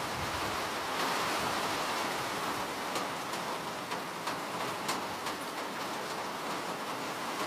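Steady rain falling as an even hiss, with a few individual drops ticking sharply on a surface.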